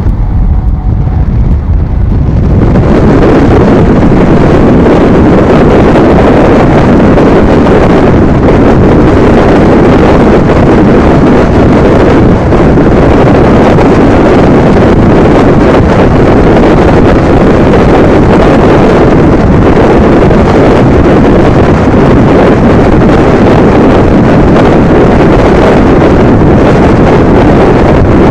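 A moving train's running noise under heavy wind buffeting on the microphone: a loud, dense rush that builds over the first two or three seconds and then holds steady.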